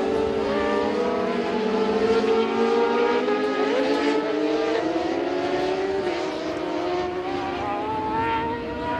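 Racing motorcycle engines at high revs, several at once at different pitches, the notes rising and falling as the bikes accelerate and ease off.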